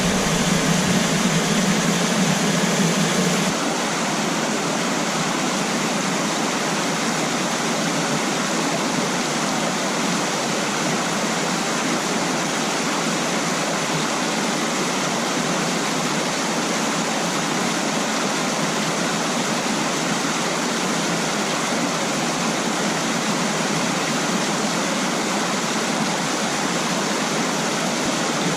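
Mountain stream water rushing and splashing over rocks in a steady, unbroken wash. The sound steps down a little about three and a half seconds in, then holds even.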